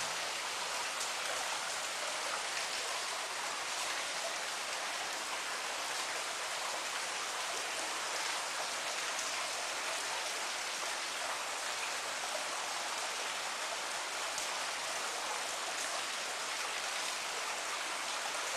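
Steady rain falling, an even hiss with faint scattered drop sounds.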